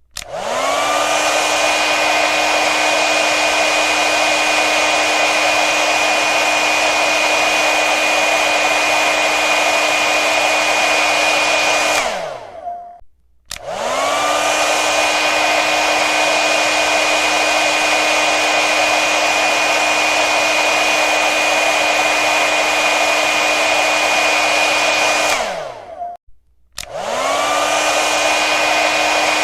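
Hair dryer switched on and running with a steady motor whine over the rush of air. Twice it is switched off: the whine glides down and the sound drops out for about a second before the dryer starts again and spins back up to speed.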